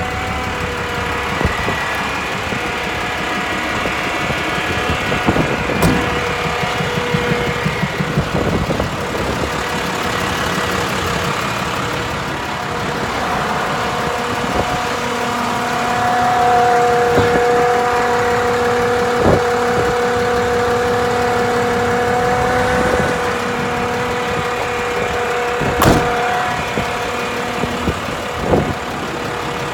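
A 2006 International 4300 bucket truck's diesel engine idling with the hydraulics running while the boom is lowered, giving a steady whine that grows stronger about halfway through. A few sharp knocks come near the end.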